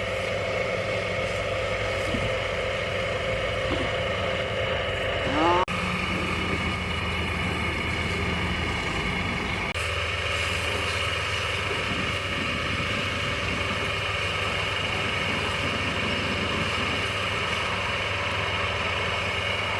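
Two-stroke chainsaw engine running steadily. It revs up briefly about five seconds in, then breaks off suddenly and carries on.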